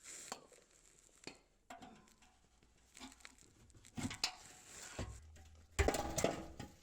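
Metal parts being handled: scattered knocks and clinks, with the loudest clanks about six seconds in ringing briefly, like exhaust pipe and hardware being moved and set down.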